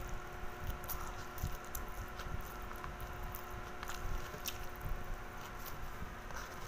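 Close-miked wet chewing and mouth sounds of a person eating a mouthful of rice, bacon and kimchi, with many small irregular clicks and squelches.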